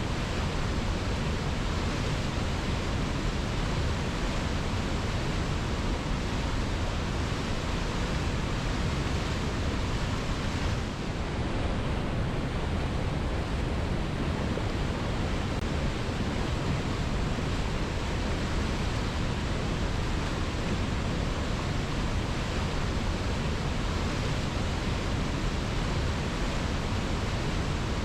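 Waterfall's water rushing in a steady, unbroken roar of noise, with a brief slight dip about eleven seconds in.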